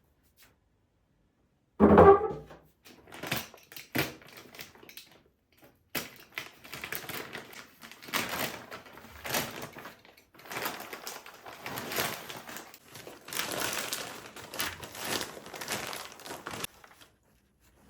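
A thump about two seconds in and a few clicks, then repeated crinkling and rustling of packaging being handled.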